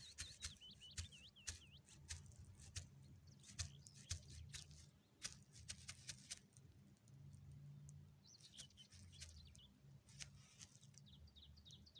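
Faint birds chirping in short, quick calls that sweep up and down in pitch, heard at the start, about two-thirds of the way in and again near the end, with scattered soft ticks and a low steady hum underneath.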